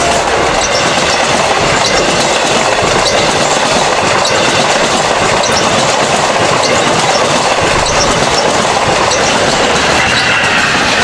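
Long Island Rail Road passenger train rolling past at close range: a steady loud rush with its wheels clattering over the rail joints.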